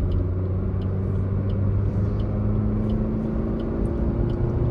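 Maruti Swift ZXI+ AGS's 1.2-litre petrol engine running steadily in gear as the car builds speed from about 60 toward 80 km/h, heard inside the cabin with tyre and road noise.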